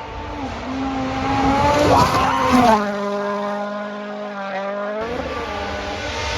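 Car engine sound, revving up and down and then holding a steady pitch before climbing again, with tyre squeal, as for a drifting car.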